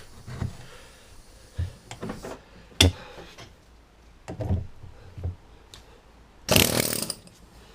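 Several separate metal knocks and clunks from work on a rear wheel hub and bearing, one of them sharp, then a short loud burst of a power tool about six and a half seconds in.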